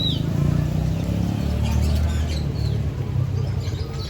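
Market songbirds giving a few short, high chirps that slide down in pitch, one right at the start and a few more near the middle, over a steady low rumble.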